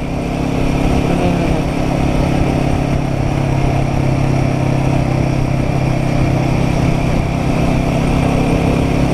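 Royal Enfield Guerrilla 450's single-cylinder engine running at steady cruising revs while riding, with wind noise over it; the engine note rises a little in the first second and then holds steady.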